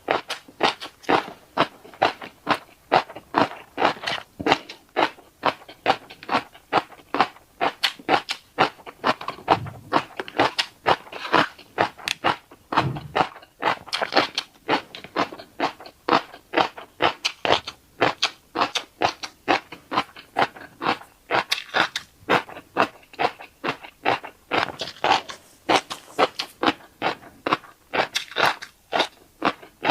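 Close-miked chewing of fish roe: a steady run of short wet crunching clicks, about two to three a second, as mouthfuls of roe are chewed.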